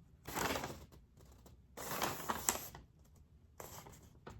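Paper rustling as a folded instruction leaflet is opened and handled, in two short bursts, followed by a few light clicks.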